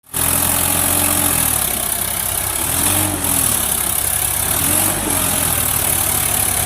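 Tractor diesel engine running loudly, its revs rising and falling twice, over a steady high hiss.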